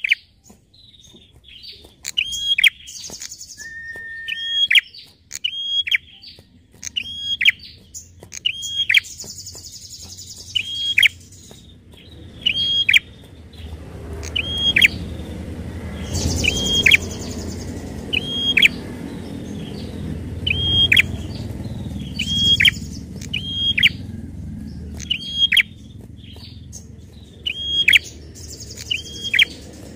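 Prenjak (prinia) calling over and over: about one sharp, clicking, downward-sweeping note a second, with a buzzy trill every several seconds. A low rumble sits under the calls through the middle part.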